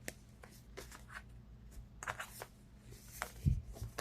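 Tarot cards being handled and shuffled, soft scattered clicks and rustles, with a dull thump about three and a half seconds in.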